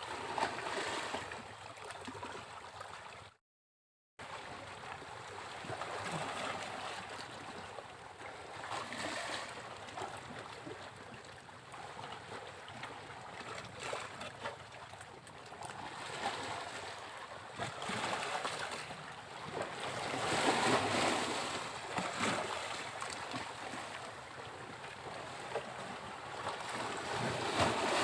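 Ocean waves breaking on a beach: a wash of surf that swells and fades every few seconds, the strongest wave about two-thirds of the way through. The sound cuts out completely for under a second about three seconds in.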